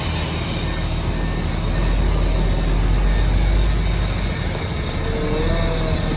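Heavy diesel earthmoving machinery running steadily, a deep engine drone under a constant hiss. A wavering whine comes in about five seconds in.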